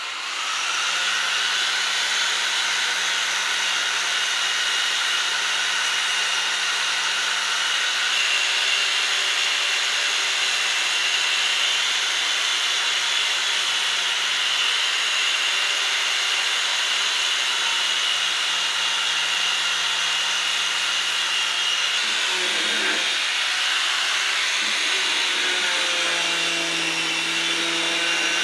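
An electric power tool running steadily with a continuous whirring hiss, its tone dipping and shifting briefly about three-quarters of the way through.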